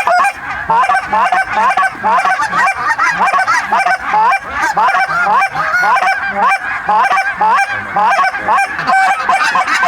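A large mixed flock of lesser Canada geese and snow geese honking, with many short rising calls overlapping without a break.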